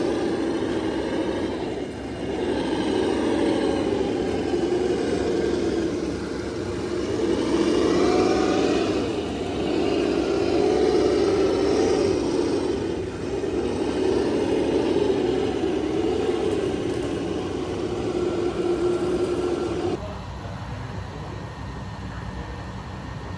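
Motor of a radio-controlled model construction machine running with a whine that rises and falls again and again as it works. About 20 seconds in it stops abruptly, leaving a quieter steady background.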